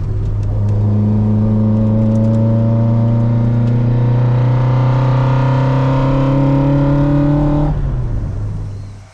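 Toyota AE86's 4A-GE twin-cam four-cylinder engine pulling hard under acceleration, its pitch climbing steadily through a gear for several seconds. Near the end the revs drop as the throttle closes, and the sound then fades away.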